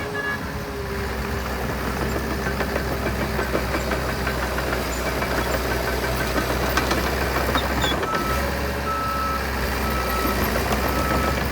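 Diesel engines of heavy earthmoving machinery running steadily. From about three-quarters of the way in, a reversing alarm beeps at a steady rate.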